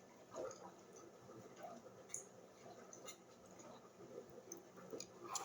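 Faint sipping and swallowing from a tumbler of blended garden egg leaf juice, with a few small glass clicks.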